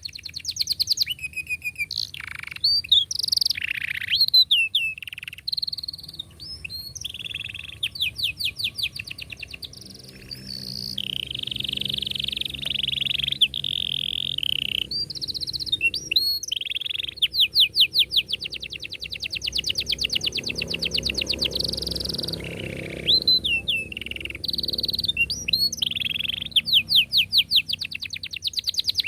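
Domestic canary singing a long, unbroken song of fast trills, rolls and chirping notes, one rapid phrase running straight into the next.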